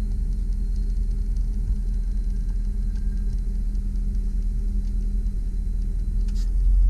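2001 GMC Sierra 3500 HD bucket truck's engine running steadily, driving the hydraulics while the boom is operated: a low rumble with a faint high whine that stops about six seconds in, after which the sound grows louder.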